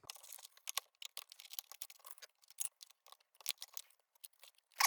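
Irregular small clicks, ticks and scrapes of little parts being handled: a tiny nut and bolt and the lantern's fittings being fiddled into place by hand.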